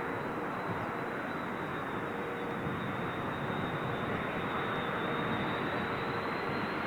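Jet airliner's engines, heard as a steady rushing noise with a thin high whine held on top.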